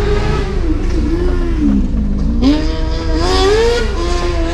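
A loud competition buggy's engine revving hard on track. Its pitch sags and climbs through gear changes, with a steady low rumble underneath, heard from inside a waiting car.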